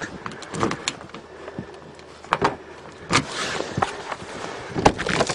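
A string of sharp clicks and clunks, a second or so apart, from a 1990 Toyota Corolla's door handle and latch being tried while the door is checked for being locked.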